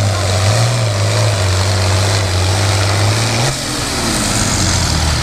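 International Harvester 966 pulling tractor's engine running loud and steady, its pitch dropping a little about three and a half seconds in.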